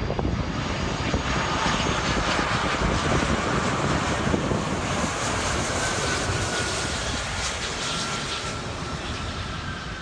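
Heavy jet airliner's engines on final approach passing by: a steady jet rush, loudest in the first half and slowly fading, with a faint engine whine that slides down in pitch.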